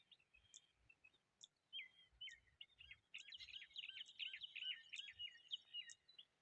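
Quail calling: a faint run of quick, repeated chirping notes that starts about two seconds in and grows denser toward the middle.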